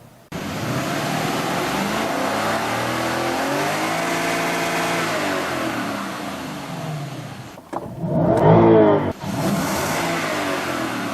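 Lexus LS460's 4.6-litre V8 exhaust, engine note climbing in pitch and easing back down over several seconds. After a short break near the end it comes back louder with quick rises in pitch.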